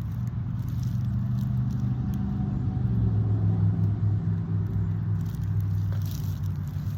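A motor vehicle's engine running, a steady low hum that swells a little and shifts in pitch around the middle.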